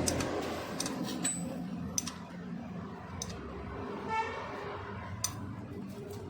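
Faint, scattered metallic clicks and clinks, about eight of them, typical of hand tools being handled on a motorcycle engine. There is a short chirping tone about four seconds in.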